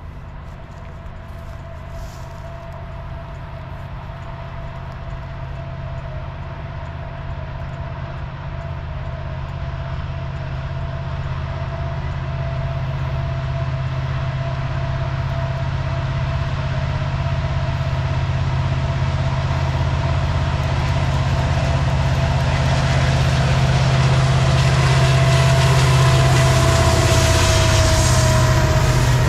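CN freight train approaching and passing, led by one diesel locomotive (CN 8904): a low engine rumble that grows steadily louder as it nears. Near the end the locomotive goes by, its steady tone drops slightly in pitch, and the double-stack container cars roll past.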